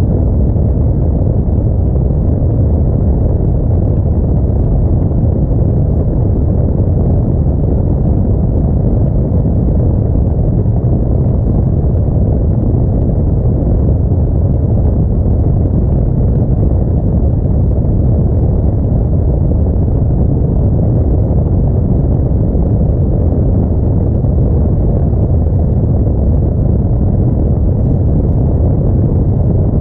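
Audi A4 driving: a loud, steady low rumble of engine, tyres and wind that does not change.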